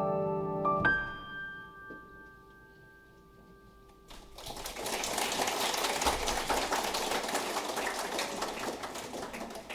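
Solo piano ending a piece: a final chord struck about a second in, left to ring and fade away, then audience applause starting about four seconds in.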